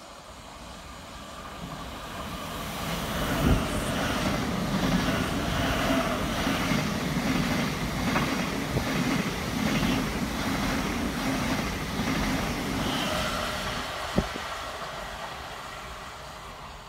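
Thameslink Class 700 electric multiple unit passing through the station: the rumble of wheels on rails builds as it approaches, stays loud as the carriages go by, then fades as it runs away. Two sharp clacks stand out, one about three and a half seconds in and another near the end.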